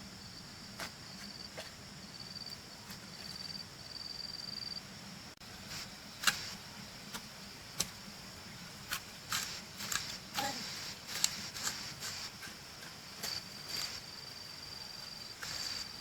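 Irregular sharp knocks of a digging tool striking into earth while a drainage trench is dug, coming thicker in the second half. Insects trill steadily at a high pitch behind them.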